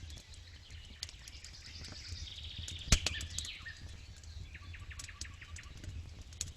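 Campfire crackling with many scattered sharp pops, one much louder pop about three seconds in. A bird sings trills and chirps in the background, over a low steady rumble.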